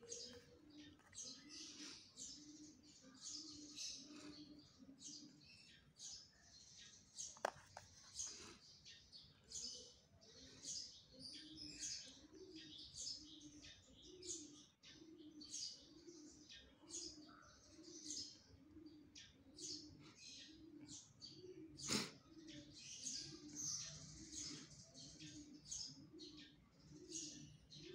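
Faint birds chirping and twittering continuously, with a low note repeating about twice a second underneath. Two sharp clicks come about seven seconds in and again about twenty-two seconds in.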